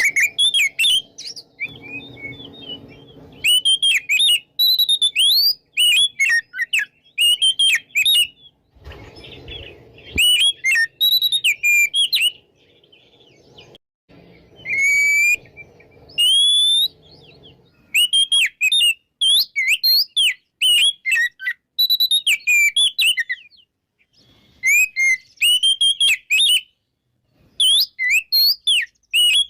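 Oriental magpie-robin (kacer) in full, loud song: short phrases of quick, varied whistled notes that slide up and down, repeated with brief pauses between them.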